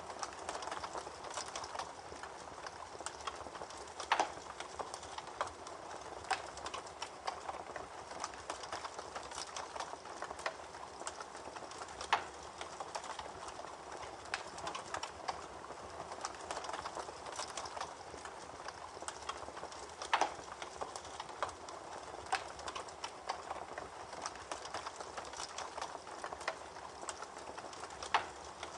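Campfire burning with dense, irregular crackling and snapping of the wood, with four sharper, louder pops about eight seconds apart.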